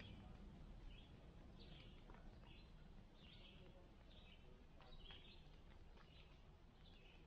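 Faint bird chirps, a steady series of short calls roughly one or two a second, over a low outdoor background hush.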